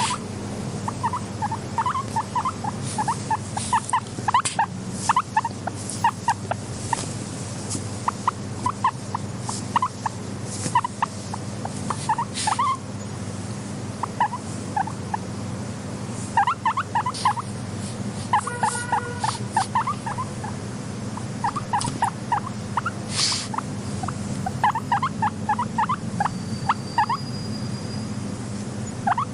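Guinea pigs making quick runs of short squeaks, in clusters with pauses between, with one longer held squeak about two-thirds of the way through, over a steady low background hum.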